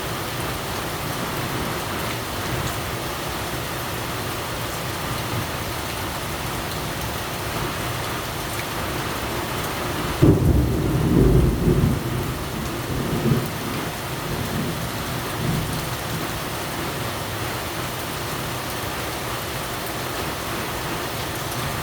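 Steady heavy rain falling. About ten seconds in, a deep rumble rises suddenly and lasts two or three seconds, louder than the rain, with smaller low swells after it.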